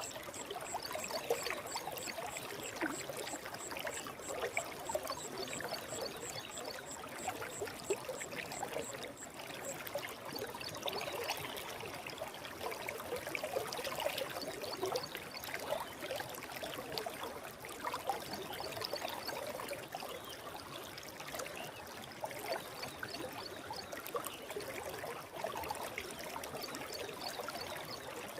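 Forest river flowing steadily: a continuous rush and trickle of water. A faint, fast, high pulsing trill sits above it for about the first third and comes back in short stretches later.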